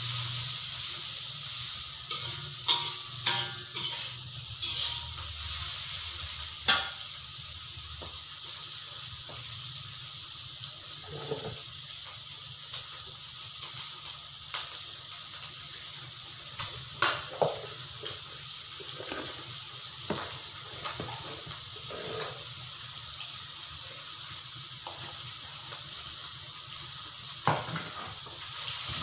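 Squid and melinjo skin sizzling steadily in an aluminium wok, with a metal spatula scraping and knocking against the pan every few seconds as it is stirred.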